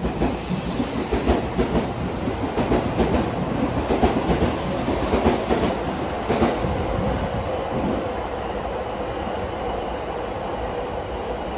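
Electric commuter train running along a station platform, its wheels clacking rapidly over the rail joints for the first six seconds or so, then settling into a steadier hum.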